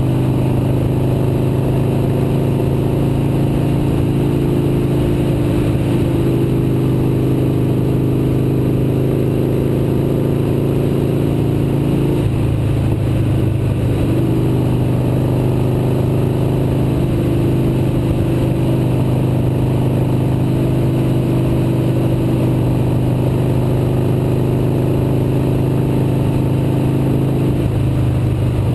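Motorcycle engine running steadily while riding. Its note changes briefly about twelve seconds in and again near the end.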